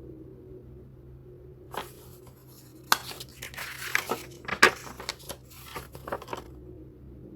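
Packaging being handled, crinkling and rustling with sharp crackles; it starts about two seconds in and stops about a second before the end.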